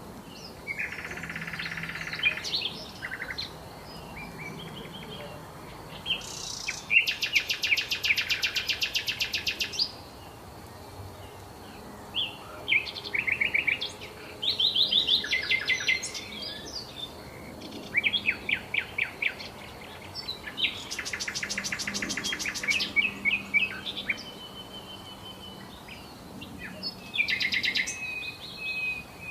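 Small songbirds chirping and singing, with short varied phrases and two long, fast trills of rapidly repeated notes, about a quarter of the way in and again about three quarters of the way in.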